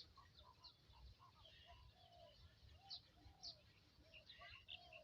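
Faint birds chirping and calling outdoors in short, scattered notes over a low background hum.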